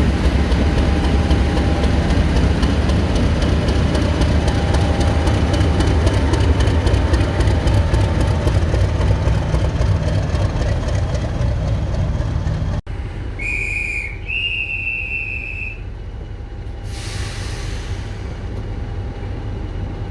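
Heritage diesel train running with a heavy, steady engine rumble. After a cut, a high whistle sounds twice, the second note slightly higher and longer, followed by a short hiss of released air.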